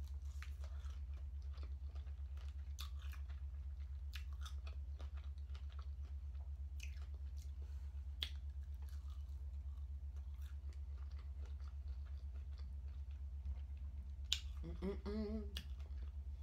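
Close-up biting and chewing of crispy fried chicken wings, with scattered crunches and wet mouth clicks over a steady low hum. A brief hummed "mm" from the eater comes near the end.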